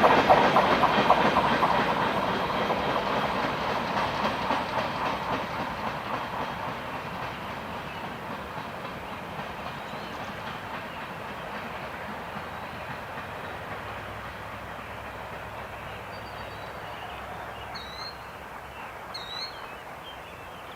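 Freight cars of a long manifest train rolling on the rails, wheels clicking over rail joints, fading steadily as the train moves away. A bird chirps a few times near the end.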